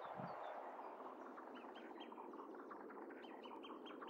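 Birds chirping: many short, quick notes over a steady background hiss of outdoor ambience, growing busier about halfway through.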